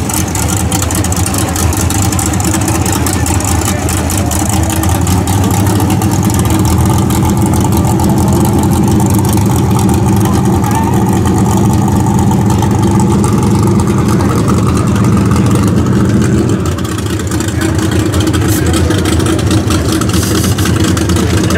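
Drag race car's engine idling with a loud, steady low rumble; the rumble shifts a little about three-quarters of the way through.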